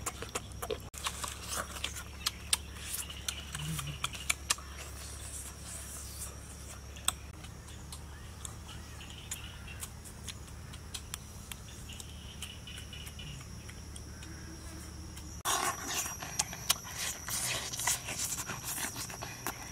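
Close-up mouth sounds of someone eating grilled meat: scattered wet clicks and smacks, growing much denser and louder near the end as a bite is pulled off a skewer and chewed.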